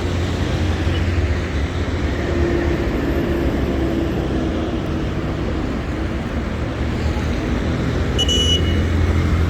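City street traffic: vehicle engines running with a steady low hum and road noise. A short high-pitched tone sounds about eight seconds in.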